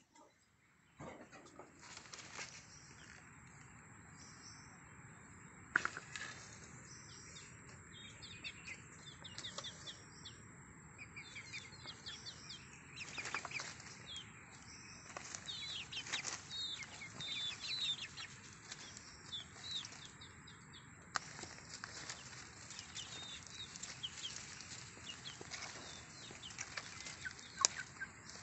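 Many short, high bird chirps repeating over a low steady background, with rustling and a few sharp knocks.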